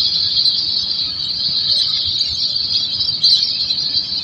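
Steady high-pitched drone of an insect chorus, unbroken throughout, with a few faint chirps about three seconds in.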